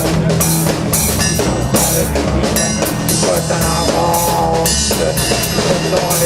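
Instrumental rock passage led by a drum kit: bass drum and cymbals keeping a steady beat under the band, with a few held instrument notes about four seconds in.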